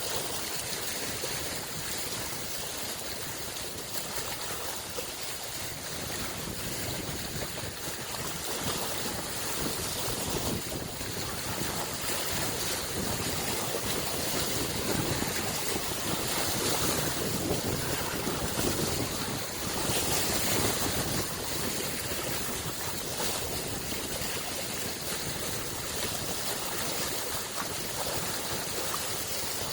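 Small lake waves washing in, a continuous wash that swells louder for several seconds around the middle.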